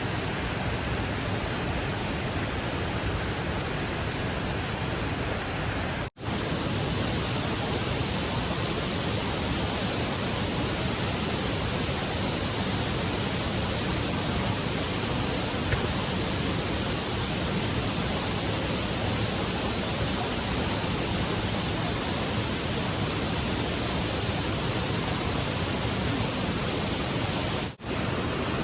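Steady rushing of a fast-flowing stream, an even hiss of water. The sound drops out briefly twice, about six seconds in and near the end.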